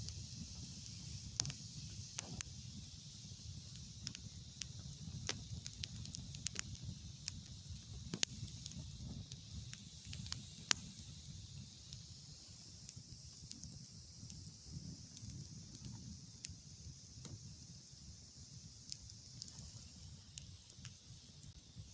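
Campfire crackling, with irregular sharp pops over a steady hiss and a low rumble.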